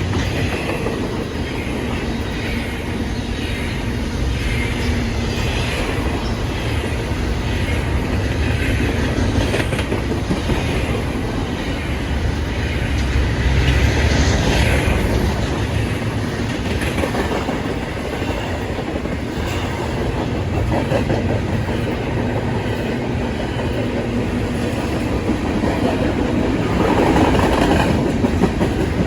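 Train cars rolling past, their wheels clicking over the rail joints in a repeating rhythm.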